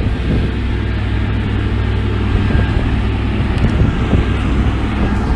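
A heavy diesel engine of earthmoving machinery running steadily, a constant low drone with rushing noise above it.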